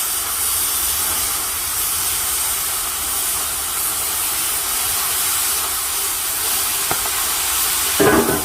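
Loud, steady hiss of rushing gas or air, with a short knock near the end.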